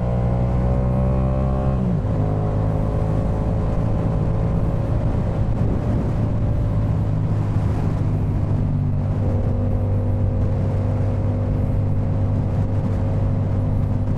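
2018 Yamaha MT-07's 689 cc parallel-twin engine breathing through a Jeskap K4 full exhaust system, under way. It rises in pitch under acceleration, drops sharply on an upshift about two seconds in, then runs at a steady, lower pitch.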